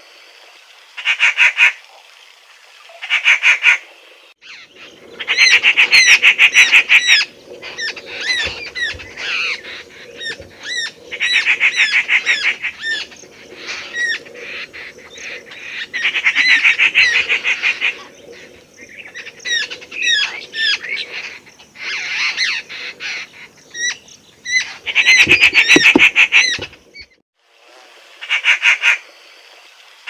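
Birds calling: loud bursts about a second long of fast stuttering trills, repeated every couple of seconds, with many shorter chirps and whistles between them.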